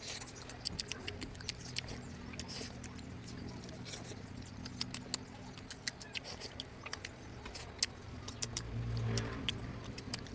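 Close-miked eating of curry: wet chewing and lip-smacking, heard as many small irregular clicks over a faint low hum.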